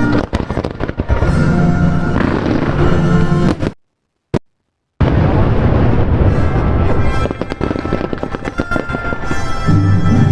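Fireworks bursting in quick succession over music playing loudly at the same time. The sound cuts out completely for about a second a little before the middle, apart from a single click, then the bangs and music resume.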